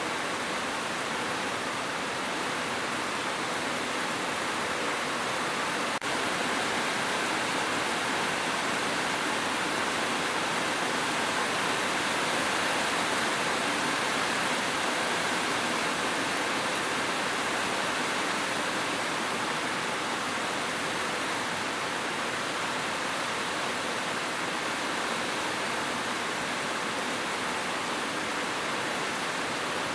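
Steady rain: a dense, even hiss of falling water with no separate drops standing out. A faint click and a slight rise in level come about six seconds in.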